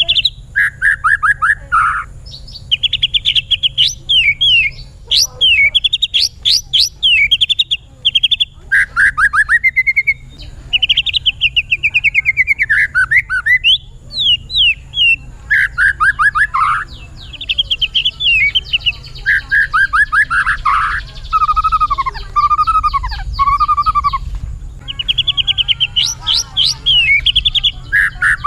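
White-rumped shama singing continuously: a varied run of fast trills, chattering phrases and rising and falling whistles, one after another with only brief pauses.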